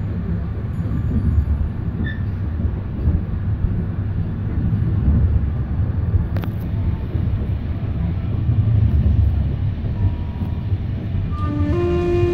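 Qinghai-Tibet Railway passenger train running, a steady low rumble heard from inside the carriage, swelling and easing a little, with a single click about halfway through. Near the end a held musical tone comes in.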